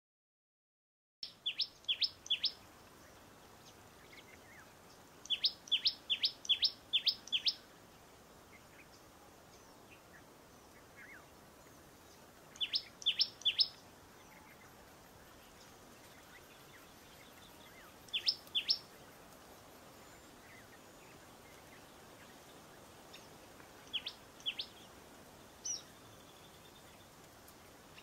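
A small bird's call: runs of short, sharp, high chirps, two to seven notes in quick succession, repeated every few seconds and thinning out toward the end, over a steady faint hiss.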